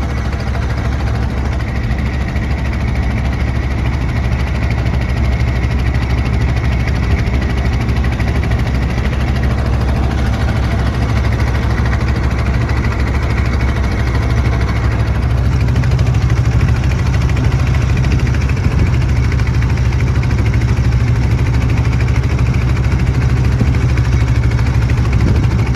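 Engine of a river boat heard from on board, running steadily with a low drone that gets slightly louder about halfway through.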